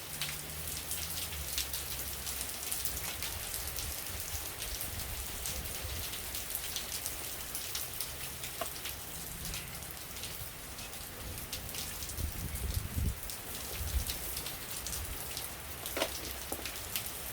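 Rain falling steadily, a dense patter of many small drops hitting a surface, with a couple of dull low knocks about two-thirds of the way through.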